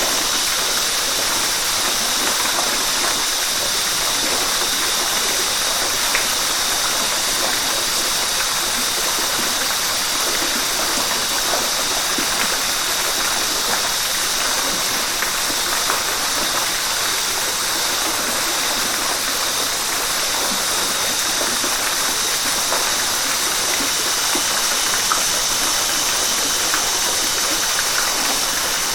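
River water flowing and rushing steadily: an even, unbroken rush with no changes.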